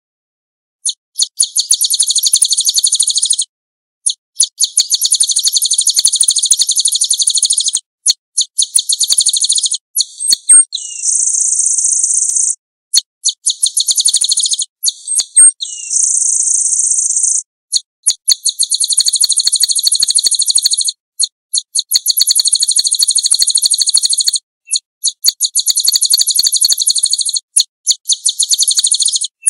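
A small songbird singing a run of long, very fast, high-pitched trilled phrases, each lasting two to four seconds with short breaks between them. Twice near the middle, a shorter, smoother buzzing phrase comes in between the trills.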